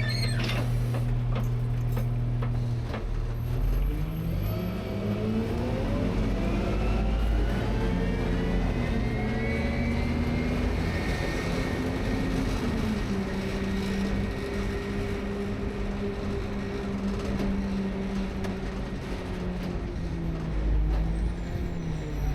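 A rear-load garbage truck's diesel engine runs steadily, then revs up over several seconds. It holds the raised speed for about ten seconds and drops back down near the end. A few clicks come right at the start.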